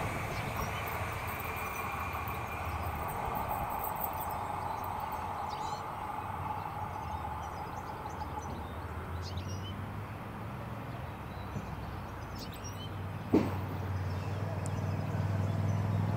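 Stadler ABe 4/12 electric narrow-gauge railcar running away, its motor whine and wheel noise slowly fading. A single sharp click about thirteen seconds in, then a low steady hum that grows louder near the end.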